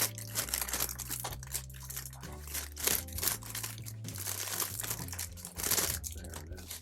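Plastic LEGO parts bag crinkling as it is handled and torn open, an irregular run of crackles.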